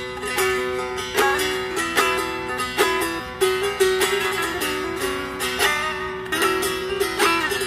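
Instrumental break in a Turkish folk song: a bağlama (long-necked saz lute) plays a fast plucked melody, several notes a second.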